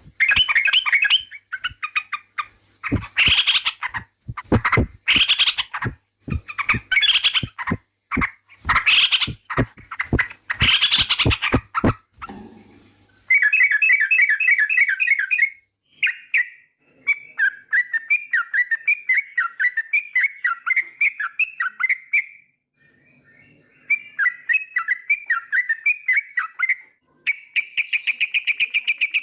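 Yellow-vented bulbul singing. For the first half, loud bursts of chattering calls come mixed with sharp clicks. It then changes to quick bubbling trilled phrases and ends on a fast, even trill.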